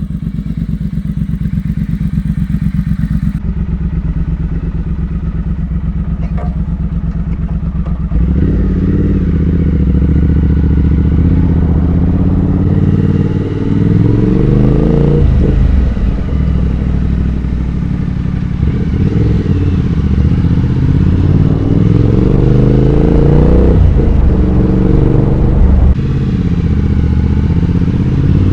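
Triumph Speed Twin 1200's parallel-twin engine through short slip-on exhausts with the catalytic converter kept. It runs steadily at first, and about eight seconds in the bike pulls away. The exhaust note rises in pitch through each gear and drops at every upshift, several times.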